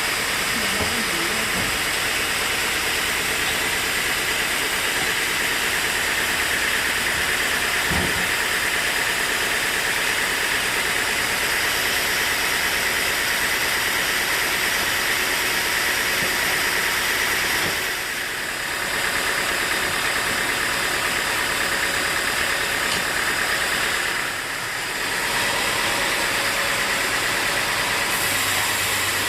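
Sawmill machinery running steadily with a constant motor noise. Its level dips briefly twice, about eighteen and twenty-four seconds in.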